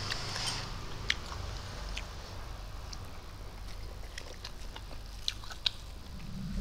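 A man chewing a mouthful of rice and side dishes, with scattered small sharp clicks as he eats.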